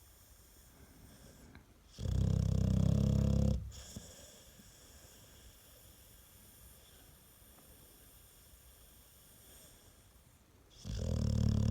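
American Staffordshire terrier snoring: one long, loud, low snore about two seconds in, and a second starting near the end, with only faint breathing between.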